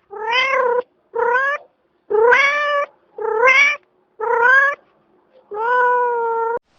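A domestic cat meowing six times in a row, each meow short and pitched, the last one longer and held at an even pitch.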